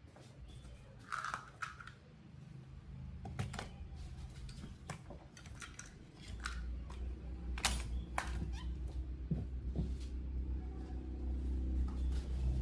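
Handling noises of objects being moved on a workbench: scattered short clicks and knocks. A steady low hum comes in about six seconds in and continues.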